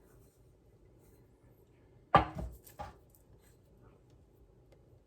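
Kitchenware knocking against a mixing bowl while chocolate mixture is scraped out: one sharp knock about two seconds in, then a lighter one.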